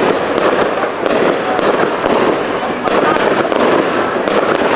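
Fireworks display going off: a rapid, irregular series of sharp bangs and crackles from bursting shells over a steady background din.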